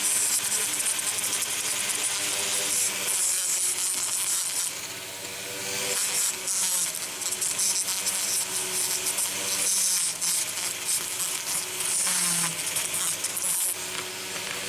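Small electric power tool running steadily against metal, a motor whine under a hissing scrape, easing off briefly about five seconds in and again near the end.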